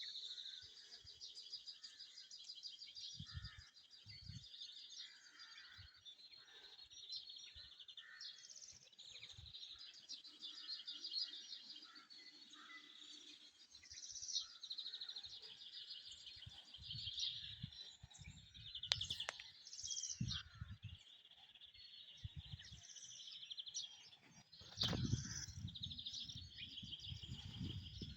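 Songbirds singing in the early morning, a steady chorus of rapid high trills and chirps. A low rumble comes in near the end.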